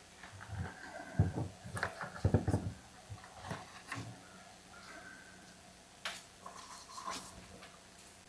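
Chainsaw parts and hand tools being handled on a workbench: a scattering of knocks and clicks, with the heaviest thumps about a second and two and a half seconds in and lighter clicks later on.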